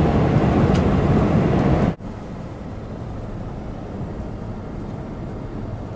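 Steady road and wind noise inside a moving car on a highway, loud for about two seconds, then an abrupt cut to a quieter, steady rumble.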